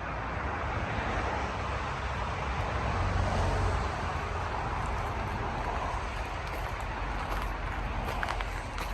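Steady noise of road traffic, with a vehicle passing that swells about three to four seconds in. A few light clicks come near the end.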